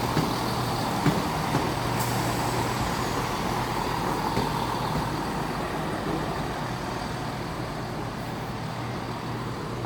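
CrossCountry Class 170 Turbostar diesel multiple unit running on the move, a steady engine hum with a rumbling wash that slowly fades over the second half. A single sharp click about two seconds in.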